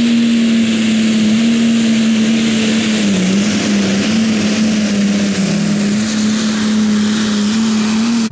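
Diesel pickup truck engine running hard at high revs under load while pulling a weight-transfer sled. The note holds steady, sagging briefly about three seconds in and again a little past the middle.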